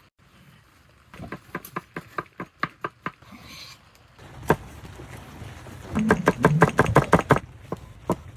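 Irregular series of sharp knocks or taps: a quick run about a second in, a single strong one in the middle, and a faster, denser cluster near the end.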